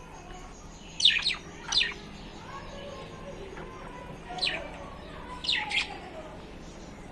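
Lovebirds chirping: short, high calls that sweep steeply down in pitch, coming in twos and threes with pauses between.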